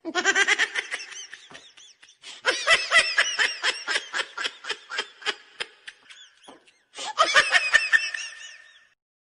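A person laughing in three long fits of rapid, high-pitched ha-ha pulses, with short gaps between the fits.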